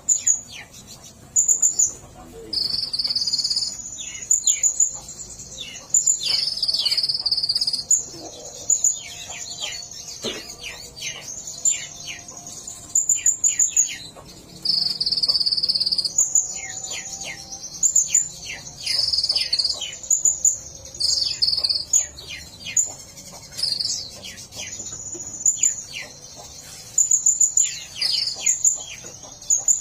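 A songbird singing a loud, high song of sharp repeated chips and held buzzy trills, broken by runs of quick falling notes.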